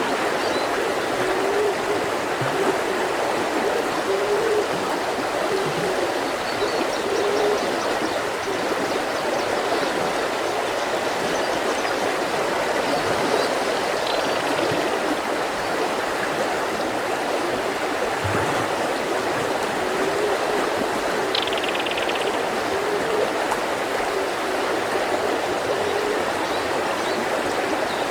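Mountain river flowing: a steady rushing with small gurgles, and a brief high bird call about 21 seconds in.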